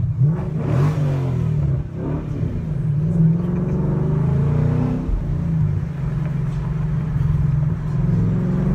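Ford Mustang GT's 5.0 Coyote V8 heard from inside the cabin while driving, the engine note rising and falling several times as the car pulls and eases off.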